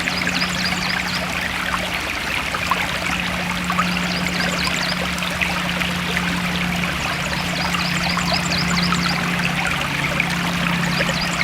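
Forest stream flowing steadily, the water full of small quick splashes and bubbles.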